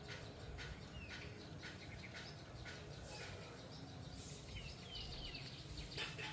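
Small birds chirping in short, scattered high notes, a few of them quick downward slurs, over a steady low outdoor rumble.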